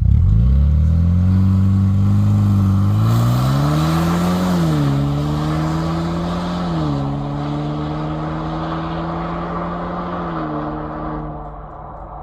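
Ford 2.3 L EcoBoost four-cylinder exhaust, through Jones Full Boar mufflers with the resonator deleted, as the SUV accelerates away. Engine pitch climbs and then drops at three upshifts, and the sound fades near the end as the vehicle pulls away.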